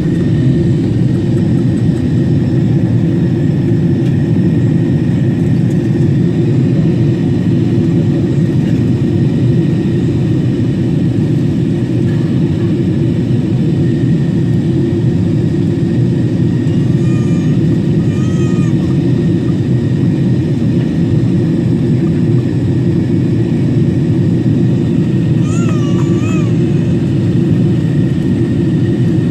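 Boeing 777-300 in flight, heard as a steady low rumble of engines and airflow inside the cabin. Faint brief high chirps come twice, near the middle and near the end.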